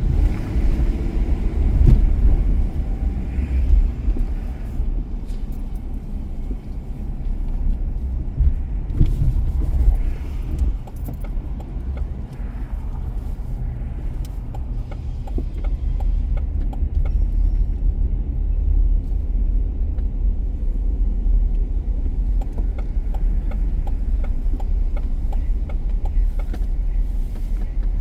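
A car driving on city streets: steady low rumble of road and engine noise, with a few brief thumps.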